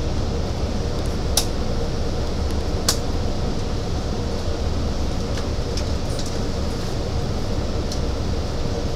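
Steady running noise inside a Long Island Rail Road C3 bilevel coach moving at speed: a low rumble of wheels on rails with a steady hum over it. Two short sharp clicks come in the first few seconds.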